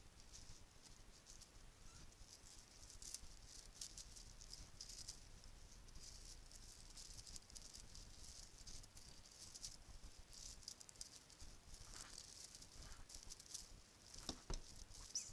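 Bracelets being handled and shaken close to the microphone, a soft continuous rattle of many small clicks and jingles. A few sharper clicks come near the end.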